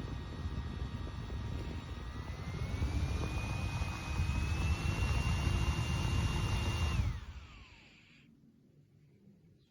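Mini handheld battery fan running, its motor whine stepping up in pitch twice as it speeds up, with air rushing over the microphone. About seven seconds in it is switched off and winds down with a falling whine.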